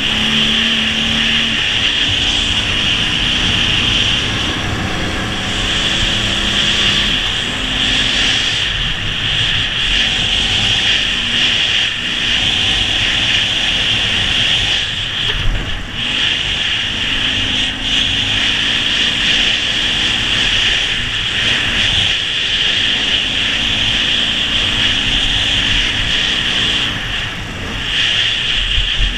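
Ural sidecar motorcycle's boxer-twin engine running under way, as heard from the sidecar, with steady road and wind noise. The engine note steps up and down in pitch several times as the rider changes speed and gears.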